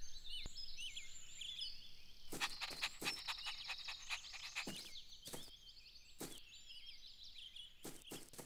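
Faint outdoor garden ambience of small birds chirping and twittering in short high calls, with a scattering of short soft taps.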